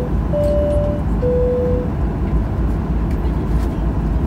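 Boeing 737-800 cabin chime sounding a high-low two-tone ding, over the aircraft's steady low cabin rumble as it waits to depart.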